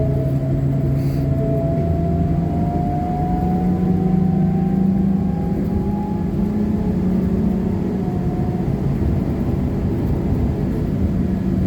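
Trolleybus running under its electric drive, a whine climbing in pitch as it gathers speed over about the first half, then levelling off, over a steady road rumble.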